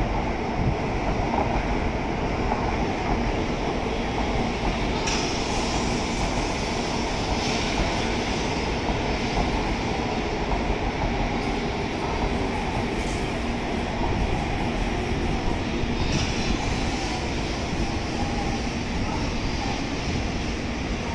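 Tokaido Shinkansen bullet train running past: a steady rumble of wheels and running gear, with a few short, higher hisses coming and going.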